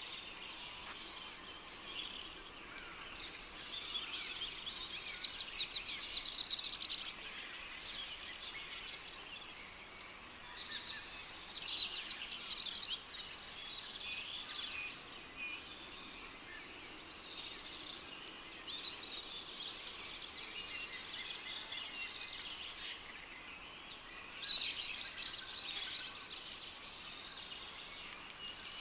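Rainforest ambience: a cricket chirping in a steady, even pulse, which stops briefly about halfway through. Scattered bird calls and trills sound over it.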